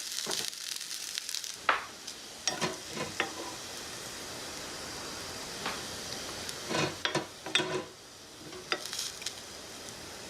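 Mushroom fried rice sizzling in a tiny frying pan as it is stirred, with a spatula knocking and scraping against the pan several times.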